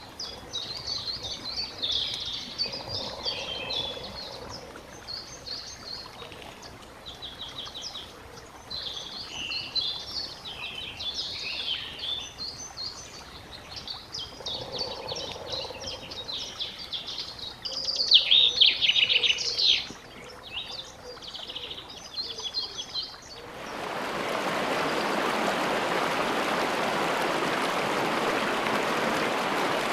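Songbirds singing and chirping, many short overlapping phrases, loudest a little past halfway. About 23 seconds in the birds cut off and a steady rush of flowing water, a stream or small waterfall, takes over to the end.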